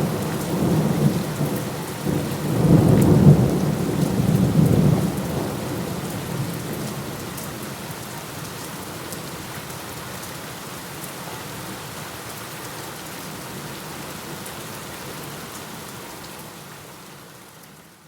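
A thunderstorm: a long roll of thunder rumbles over steady rain during the first five seconds, loudest about three seconds in, then dies away and leaves the rain falling alone. The rain fades out near the end.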